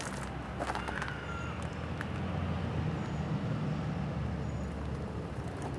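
Low rumble of a passing motor vehicle, swelling about halfway through and then easing off, with a few faint high chirps over it.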